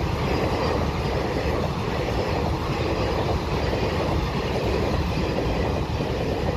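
Express train hauled by a WAP-4 electric locomotive passing close by at high speed: a loud, steady rumble and rattle of wheels on the rails.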